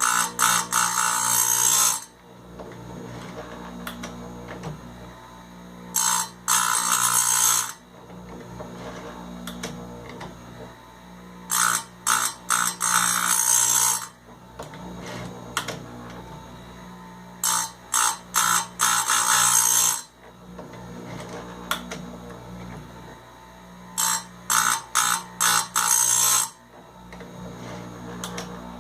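Bench chainsaw chain grinder running with a steady motor hum, its wheel grinding the cutters of a .325-pitch saw chain one tooth at a time. Five harsh grinding passes of about two seconds each, roughly every six seconds, each starting with a few short touches of wheel on tooth.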